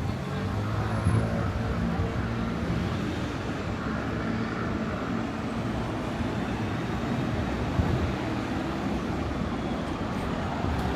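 City road traffic: vehicle engines running and passing close by over a steady noise of traffic.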